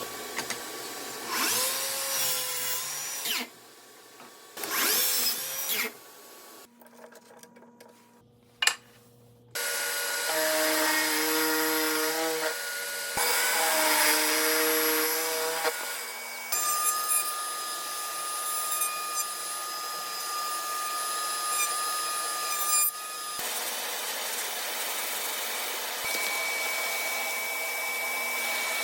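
Electric power tools running in a string of short clips: bursts of a drill motor's whine with brief quiet gaps in between, then longer steady runs of a motor.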